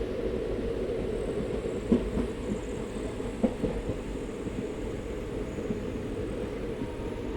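Passenger train running on the rails with a steady low rumble, and a few short knocks of the wheels about two and three and a half seconds in.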